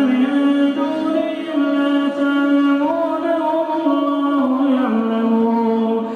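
A man's voice chanting Quran recitation in melodic tajweed style: one unaccompanied voice holding long notes that step slowly up and down in pitch, dropping lower about five seconds in.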